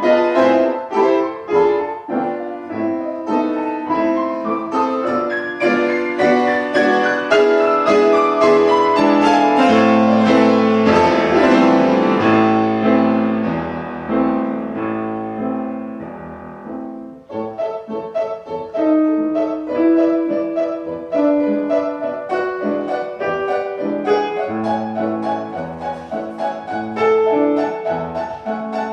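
Piano playing a lively classical piece: quick notes, a sweeping run up and down the keyboard midway, a brief drop in loudness about 17 seconds in, then the playing picks up again.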